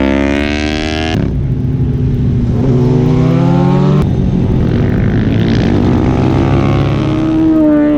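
Superbike engines accelerating hard, their pitch climbing in repeated rising runs, with abrupt breaks about one second and four seconds in.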